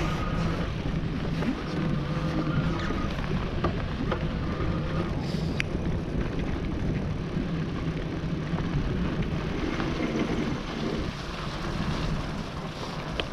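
E-bike riding noise: knobby tyres running over wet, slushy snow and mud, and wind on the action camera's microphone, with a faint steady hum and a few small clicks and knocks from the bike.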